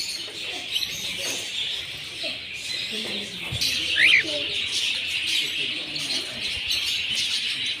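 Many small songbirds chirping together in a steady, dense chatter, with one louder call standing out about four seconds in. Low cooing of doves or pigeons runs underneath.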